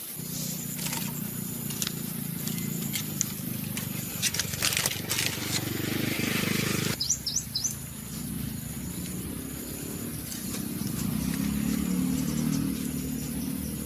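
A low, steady rumble outdoors, with rustling and clicks near the middle and a few short high bird chirps; the sound changes abruptly about halfway through.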